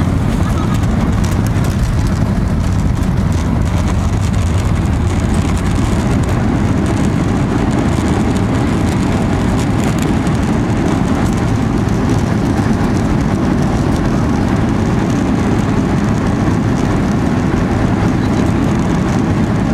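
Steady, loud deep rumble of a jet airliner's engines and airflow heard from inside the passenger cabin.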